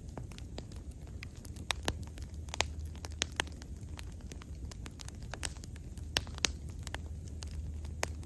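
Wood fire burning steadily, with irregular sharp crackles and pops over a low, steady rumble of the flames.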